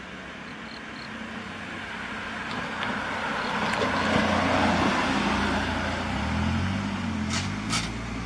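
A large truck driving past, its engine and tyre noise growing to the loudest point about halfway and then easing off, with the engine note changing in steps near the end. Two short sharp sounds come just before the end.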